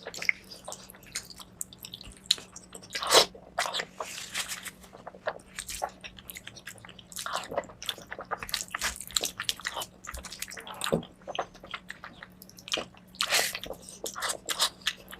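Close-miked chewing and biting of mutton fat curry with rice: irregular wet smacks, squelches and soft crunches, in uneven clusters with short pauses.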